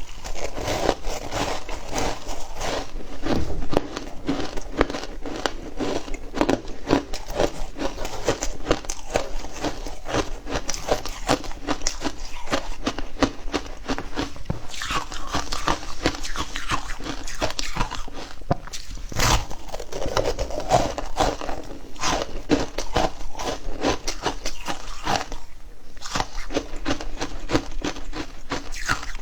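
Frozen matcha ice being bitten and chewed, with dense, irregular crunching and crackling throughout.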